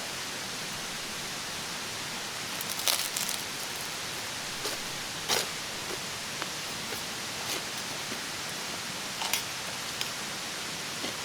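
Steady rushing of a mountain stream, with scattered small clicks and snaps on top, a short cluster of them about three seconds in.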